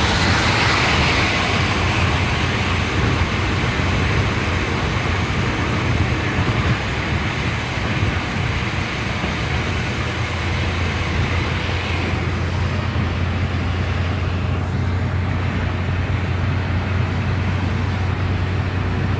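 A car driving along a road: steady tyre and wind noise with a low, constant engine hum, the hiss easing slightly about two-thirds of the way through.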